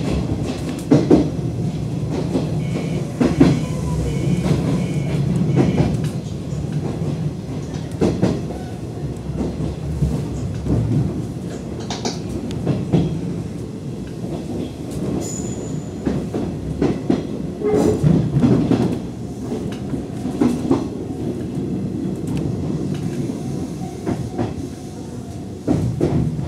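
Nishitetsu 2000 series electric train running, heard from the driver's cab: a steady low rumble with irregular clacks as the wheels pass over rail joints.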